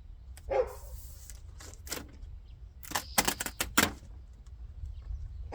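Light clicks and taps from parts being handled at the car door: a couple about two seconds in, then a quick run of about half a dozen a second later.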